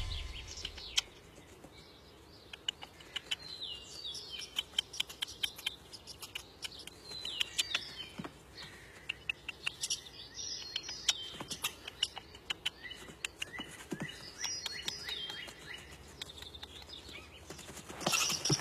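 Birds chirping in woodland: many short, high chirps and quick falling calls mixed with sharp ticks, repeating throughout. A louder burst of noise comes in near the end.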